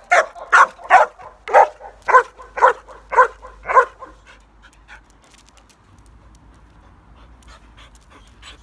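A dog barking repeatedly, about two loud barks a second for the first four seconds, then stopping.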